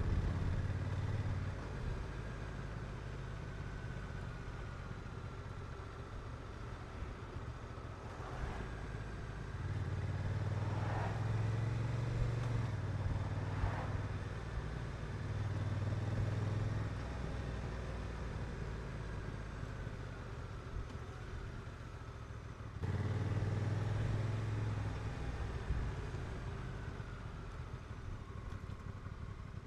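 Honda NT1100's parallel-twin engine running on the road, its note swelling as the throttle opens around ten seconds in and rising sharply again near the end, over wind and road noise.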